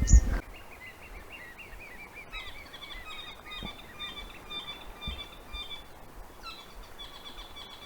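Songbirds chirping: a long run of short, quick notes repeating for several seconds, with a brief low thump at the very start.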